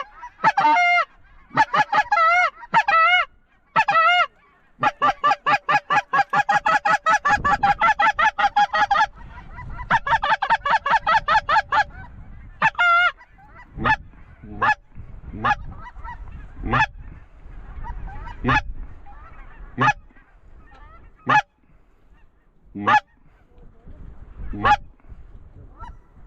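Goose calling: honks at first, then fast even runs of clucks, then single short clucks about once a second as geese come in to the decoys.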